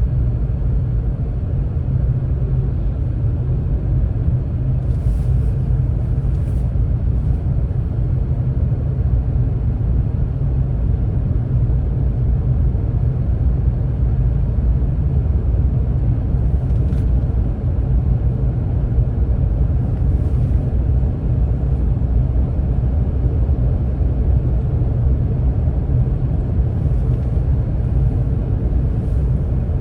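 Steady low rumble of a car driving: engine and road noise. A few faint, short clicks sound now and then.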